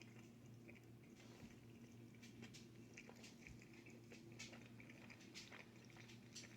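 Faint close-up chewing of pizza: scattered soft wet clicks and smacks of the mouth, over a low steady hum.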